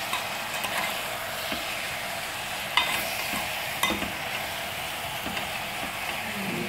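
Chicken pieces sizzling in hot oil with fried onions in a metal pot while being stirred with a metal spoon. The spoon clinks against the pot several times, loudest near the middle.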